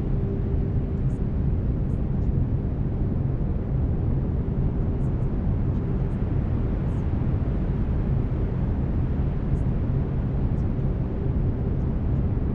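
Steady brown noise: a deep, even rushing hiss weighted toward the low end, with a faint steady tone running underneath it, as used for binaural-beat sleep tracks.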